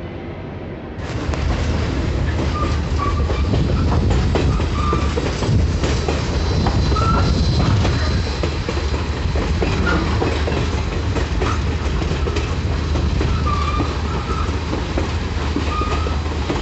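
Passenger train heard from on board as it rolls along: a steady rumble, with wheels clicking over the rail joints and short wheel squeals now and then. The sound gets louder about a second in.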